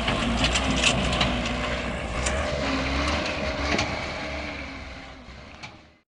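A heavy vehicle's engine rumbling, with scattered knocks and clatter over it. The sound fades away and cuts off near the end.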